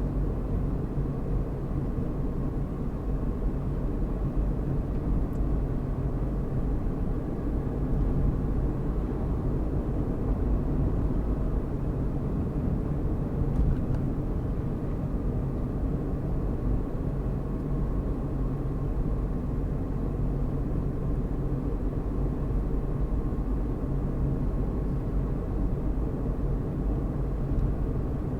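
Car driving at a steady speed: continuous engine and tyre-on-road rumble, deep and unchanging.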